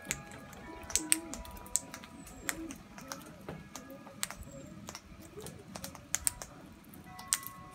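Birds feeding on seed: beaks pecking and cracking seed on a hard surface, making irregular sharp taps a few times a second.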